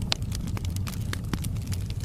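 Wood logs burning in a fireplace, crackling with irregular sharp pops over a low, steady rumble of flame. The loudest pop comes just after the start.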